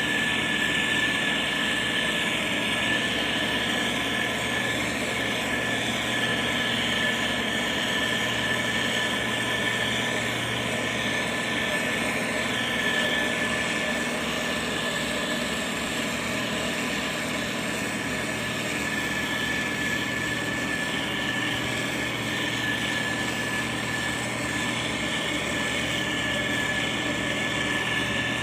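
Diesel engine of heavy road-building machinery running steadily, with a constant high whine over it.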